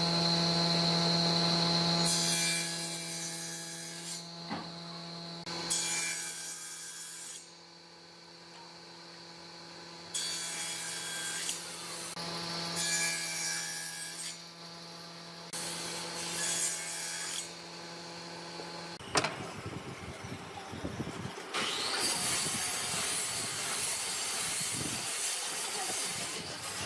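Electric woodworking power tool running with a steady hum, cutting wood in several passes of a second or two each. About two-thirds of the way in the hum stops and a different, rougher cutting sound takes over.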